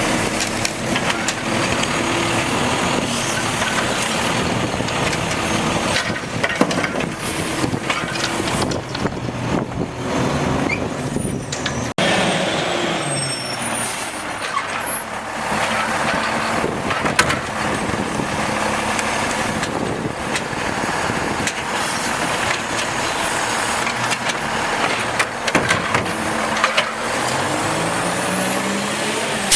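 Automated side-load garbage truck at work: diesel engine running, with air-brake hiss and mechanical clanks and clatter. The sound changes abruptly about twelve seconds in.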